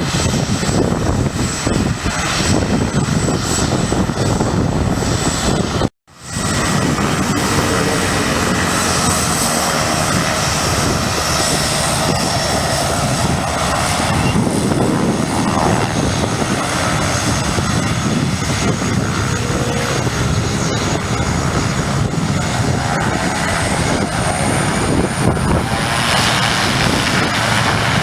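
Small propeller airplane's engine running loud and steady. The sound drops out abruptly for a moment about six seconds in, then resumes.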